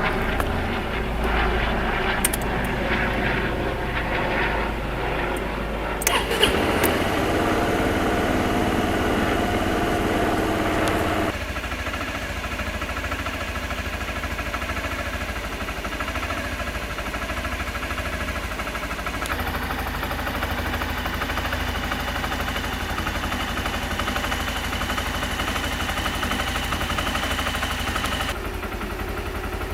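Suzuki Skywave 250 scooter's single-cylinder engine running, heard through the exhaust, with a sharp click about six seconds in and a louder stretch with a rising tone before the sound drops abruptly to a quieter steady run.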